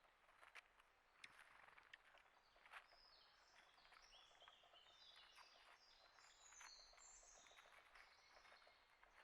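Faint chirping of small birds, busiest in the middle, with many light ticks and taps scattered throughout.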